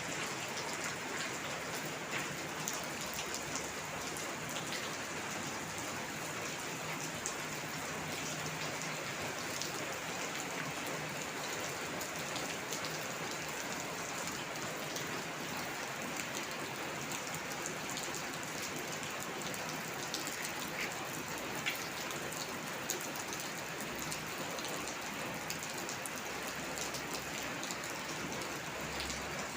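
Steady rain falling, with scattered sharper drop ticks heard through the even hiss.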